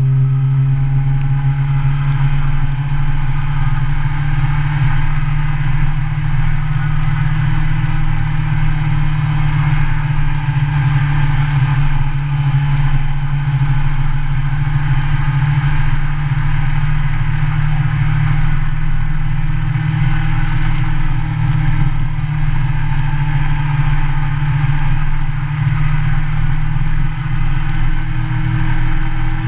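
Motorcycle engine running steadily while riding, its pitch rising and falling slightly, with a steady hiss of wind and road noise over it.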